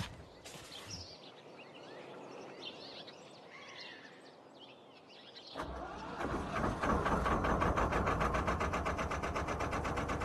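Faint birdsong, then about halfway through a narrowboat's engine starts up and runs with a fast, even chugging rhythm.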